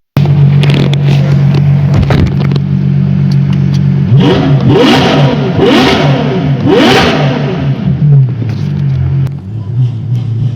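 Ferrari F12's naturally aspirated V12 through a freshly fitted IPE exhaust, idling and then revved three times in quick succession about four to seven seconds in, each rev rising sharply before it drops back to idle.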